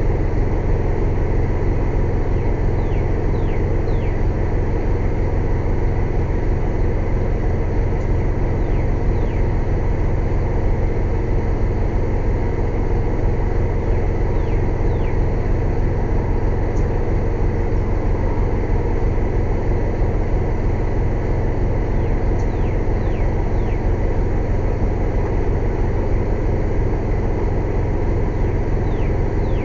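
Air compressor running with a loud, steady low drone. Faint short high chirps come in small groups every several seconds.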